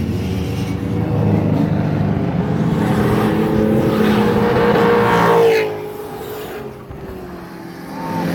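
A drift car's engine held at high revs as it passes close by. Its pitch and loudness climb to a peak about five and a half seconds in, then drop away suddenly as the car moves off.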